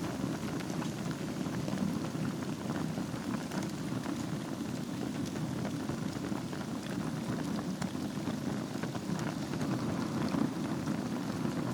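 Wood fire burning in a fireplace over a bed of embers: a steady low rumble of flame with many small, scattered crackles and pops.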